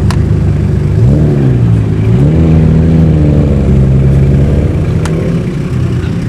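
Car engine blipping its revs about a second in, then rising again and holding steady as the car pulls away, fading a little near the end.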